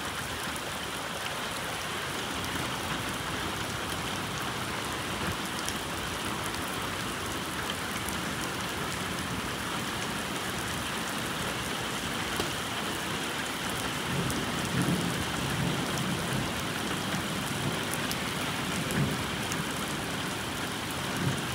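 Heavy rain pouring steadily, a constant hiss of drops on surfaces. A low rumble joins it in the last third.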